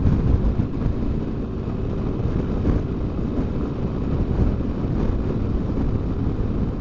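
Wind rushing over the microphone of a moving motorcycle, over a steady low drone from the bike and road. It is a windy day.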